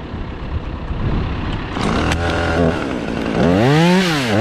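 Chainsaw running low at first, then revved up hard about three and a half seconds in, dropping back briefly and revving again, as the back cut on a rigged oak section begins.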